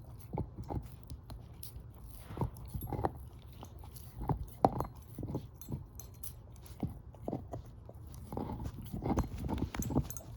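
Shepherd-mix dog gnawing and crunching on a bone, with irregular loud crunches that come in quick succession near the end.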